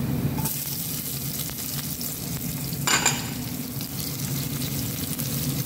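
Minced garlic and sesame seeds frying in oil in a pan, a steady sizzle. About three seconds in there is one short, louder burst as chopped onion goes into the hot oil.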